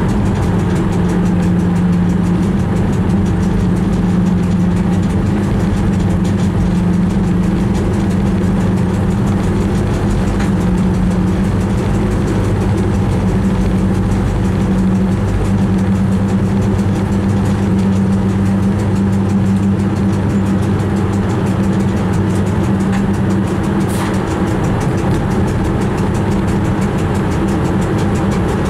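Train running along the track, heard from inside the driver's cab: a loud, steady drone with a deep hum.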